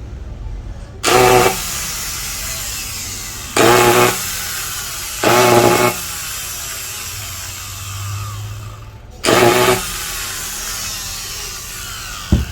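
Makita angle grinder's motor running on test, broken by four louder half-second surges, then stopping with a click near the end. It spins, but something seems to be popping inside it.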